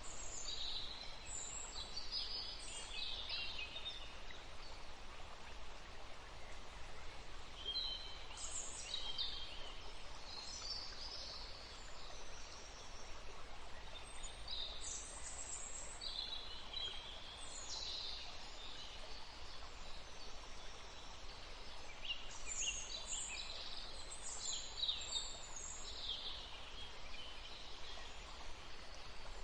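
Small birds chirping in several bouts of quick, high-pitched calls over a steady background hiss.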